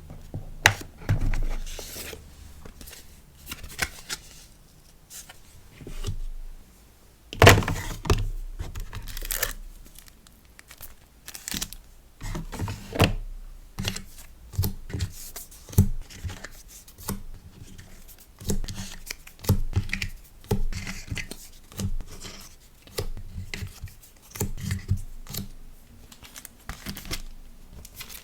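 Sticker-order packaging being handled by hand: irregular crinkling, rustling and tearing of paper and plastic wrapping, with light taps and thunks on a table.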